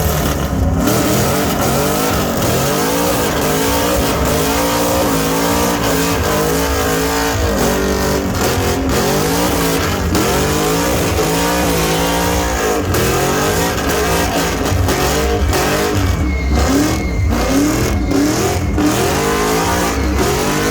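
Car engine revved hard over and over, its pitch climbing and falling back roughly every second or so, as in a burnout.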